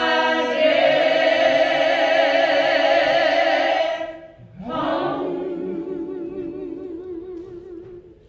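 Church choir singing, holding a long chord with vibrato that breaks off about four seconds in, then a second, quieter held note that fades away.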